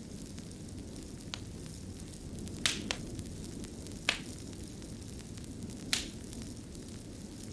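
Fire burning with a steady low rumble and sharp crackles, a handful of scattered pops, two of them close together near the middle.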